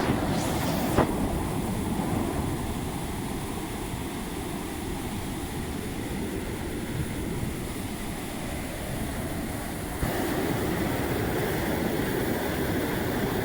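Heavy water release rushing out of the Nolin dam, a steady low rumbling rush, with two short knocks in the first second and a slight step up in level about ten seconds in.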